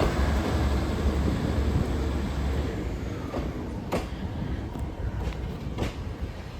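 Diesel train's engine rumbling and fading as the train moves off, with a few sharp clicks as its wheels run over the points.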